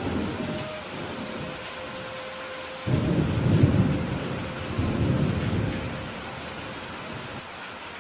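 Steady heavy rainfall with thunder: a brief low rumble at the start, then a loud thunderclap about three seconds in that rolls on in two swells and fades out by about six seconds.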